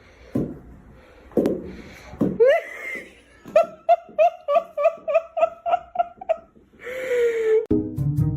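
A person laughing hard in a fast, even run of about a dozen "ha" pulses, ending in a breathy wail. Music starts near the end.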